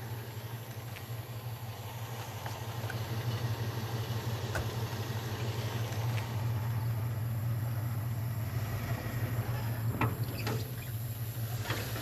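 Car engine running with a low, steady hum that grows a little louder through the middle.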